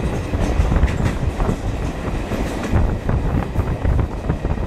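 Passenger train running along the track, heard from outside the coach at an open door: a steady low rumble of wheels on rail with irregular clattering knocks.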